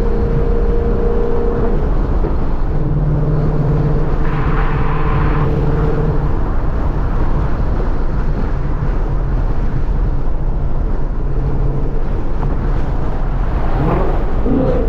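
2014 Ford Mustang GT's 5.0-litre V8 engine and exhaust running steadily while the car is driven, with road noise underneath.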